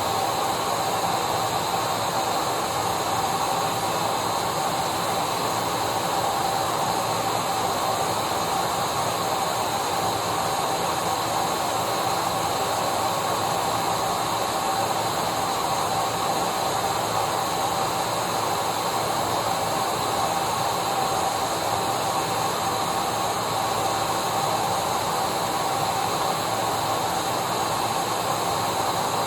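Vacuum cleaner running steadily: an even rushing hiss with a constant whine, unchanging throughout.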